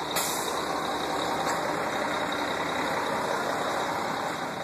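Heavy garbage truck engine running steadily, stuck in deep snow.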